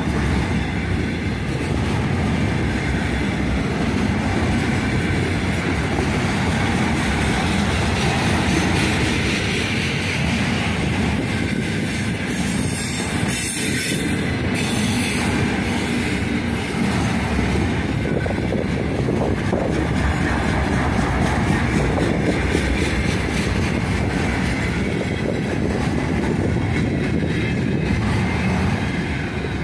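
Freight train of loaded container flatcars rolling past: steady rumble of steel wheels on the rails with clickety-clack from the rail joints.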